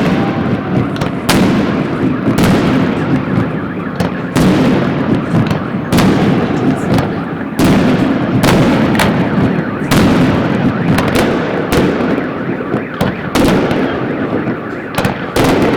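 Fireworks display: loud aerial shell bursts, one every second or so, each trailing off in a rolling echo over a continuous rumble and crackle.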